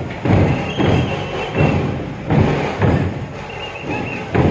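Music with heavy, repeated drumbeats, roughly one every two-thirds of a second.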